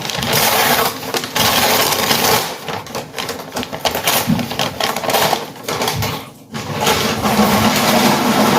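Take-out food bags and wrappers being crumpled and rustled, a dense crackling with a short pause near the middle.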